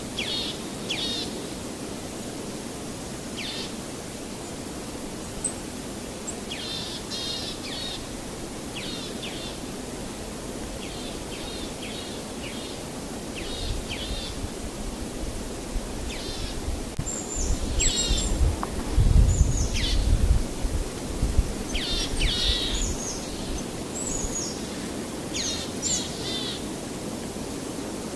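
Birds chirping in short, repeated calls over a steady background hiss. A low rumble swells about halfway through and is loudest about two-thirds of the way in.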